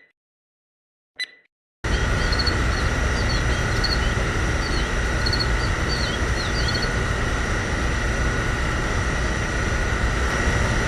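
Two short high dings in the first second or so, then a steady machine-like running sound with a low rumble starts abruptly about two seconds in and keeps going evenly, with small bird-like chirps over it.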